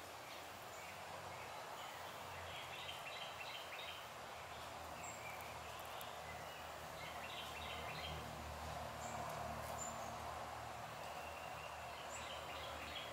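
Outdoor background ambience: a songbird sings short bursts of quick chirping notes three times, over a steady low hiss.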